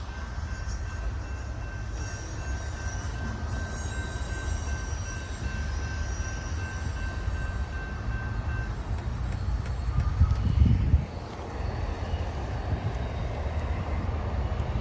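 Union Pacific freight train rolling past, a steady low rumble of cars on the rails, with a thin high wheel squeal that fades out a little over halfway through. Near the end there is a brief low bump, like wind on the microphone.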